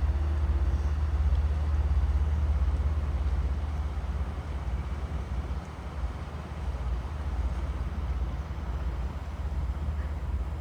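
Commuter train running, heard from inside the car: a steady low rumble that eases off a little partway through.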